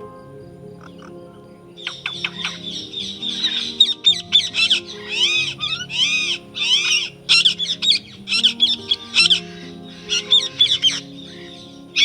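A songbird singing a fast, loud run of repeated arching whistled notes, starting about two seconds in and stopping near the end, over soft background music of held low notes.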